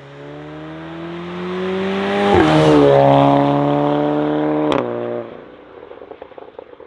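Mk7 Volkswagen Golf with a quad-pipe exhaust accelerating hard past and away. The engine note climbs, drops at an upshift a little over two seconds in, and climbs again. A sharp crack comes at the next shift just under five seconds in, then the sound fades as the car pulls away.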